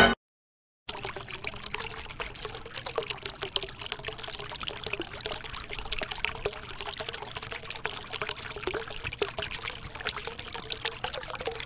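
Water trickling steadily, with many small splashes, starting about a second in.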